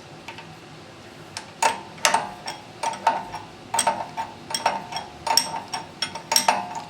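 Repeated sharp metallic clicks and clinks, roughly two a second, each with a short ring, starting about a second and a half in: metal tools and parts knocking together as a pressure washer's unloader valve is reassembled.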